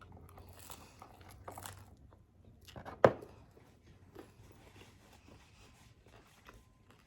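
Close-up eating sounds: soft bites and chewing of pizza, with one sharp click about three seconds in.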